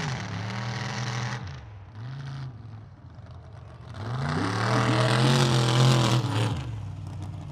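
Mud-bog super truck's engine revving hard in bursts as it runs the mud pit: a rev at the start, a short blip about two seconds in, then the loudest and longest rev from about four to six and a half seconds, falling away near the end.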